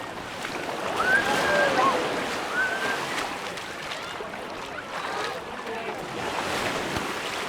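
Beach ambience: a steady wash of surf with the voices of people around, a few louder calls standing out about a second in.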